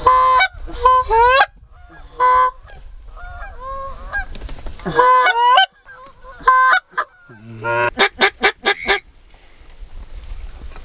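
Loud goose-like honking calls: a series of short honks, each rising in pitch at its end, then a quick run of about six clipped notes near the end.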